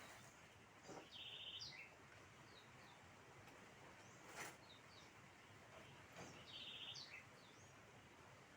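Faint bird song over low background noise: the same short high, buzzy phrase sung twice, about five seconds apart. There is a faint click near the middle.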